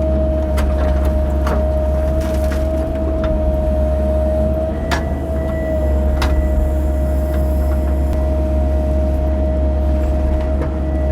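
CAT 308 mini excavator's diesel engine running steadily under working load, with a steady high whine over the low rumble and scattered clicks and knocks as the machine digs.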